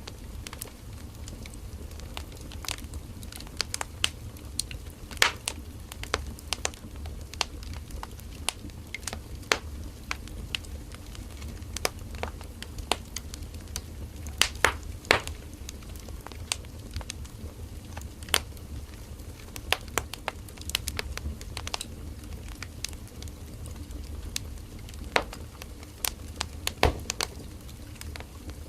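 Firewood burning in a campfire: irregular crackling and snapping pops over a low, steady rumble of the flames.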